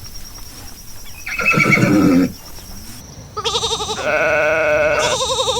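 Farm animal bleating: a short call about a second in, then a long quavering bleat from about three and a half seconds in, briefly dipping near the end.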